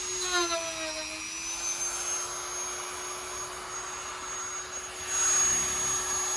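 Dremel rotary tool with a cutting wheel running at a steady high whine as it cuts a perspex scooter windshield. Its pitch sags briefly about half a second in as the wheel takes load, and a louder grinding rasp comes in near the end.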